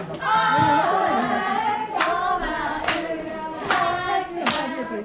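Voices singing a held, wavering chant together, with four sharp claps or clacks spaced a little under a second apart starting about two seconds in.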